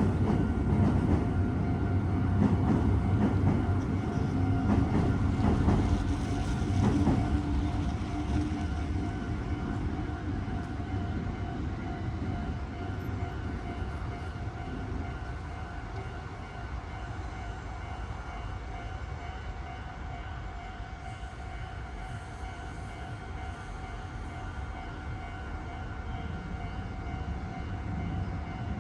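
Meitetsu electric train passing over the junction: a low rail rumble with wheel clatter, loudest in the first several seconds and then fading away. A level-crossing bell keeps ringing throughout.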